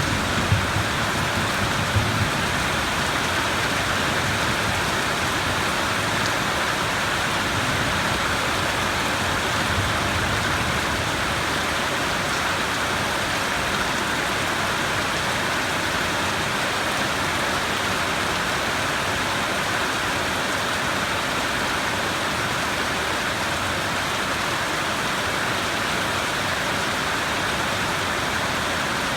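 Steady heavy rainfall, an even hiss of rain on surfaces, with the low tail of a thunder rumble in the first couple of seconds.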